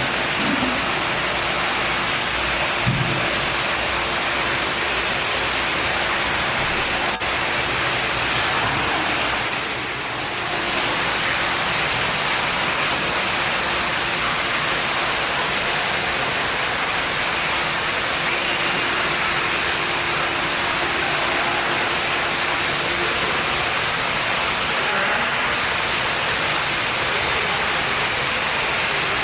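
Steady rushing noise of running water, like an indoor waterfall or fountain, even and unbroken throughout, with a short dip about ten seconds in.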